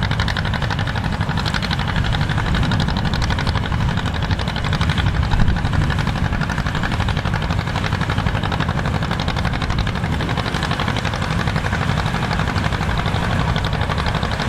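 Engine of old farm harvesting machinery running steadily under load, with a fast, even pulsing and a heavy low rumble.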